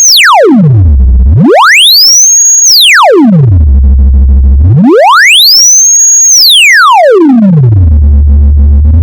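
Loud electronic sine-tone sweep for clearing water and dust from a speaker: a single pure tone glides smoothly from a high whistle down to a deep bass hum and back up, about one full cycle every three seconds, three descents and two climbs, with the last climb starting near the end.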